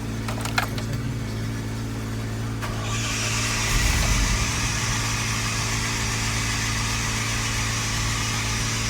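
Bucket truck's 8.1-liter gasoline engine running at idle with a steady note, just after being started. A few sharp clicks come in the first second; about three seconds in, a hiss joins and the engine briefly rises before settling back to a steady idle.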